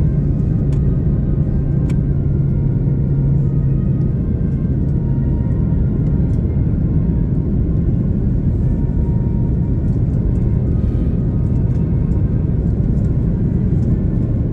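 Steady low rumble inside an Airbus A330-300 cabin, from the engines and the air around the aircraft. A steady hum sits in the rumble for the first few seconds, then fades, and there are a few faint clicks.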